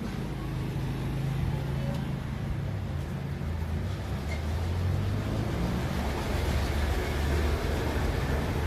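A steady low mechanical hum with a rumbling, noisy undertone.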